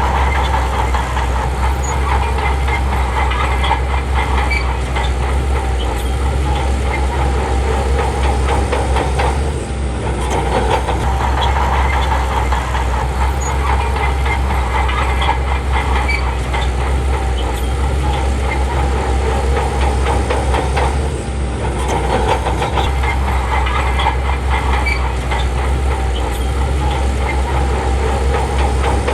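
Bulldozer's diesel engine working steadily, with the rapid clatter of steel tracks. The sound eases briefly twice, about ten and twenty-one seconds in.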